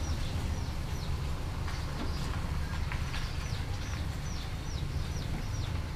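Small birds chirping, a quick series of short high notes that each fall in pitch, over a steady low rumble.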